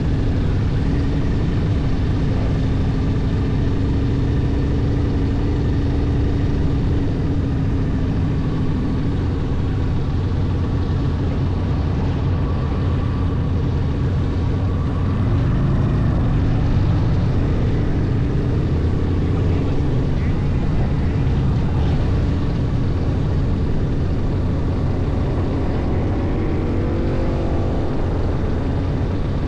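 Motorcycle engine and exhaust running steadily on the move, with a low, continuous sound whose pitch drifts up and down; near the end the engine note rises.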